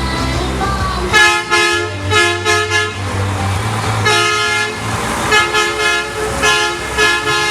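Truck horns honking in a run of short blasts, then one longer blast, then more short blasts, over the low rumble of truck engines.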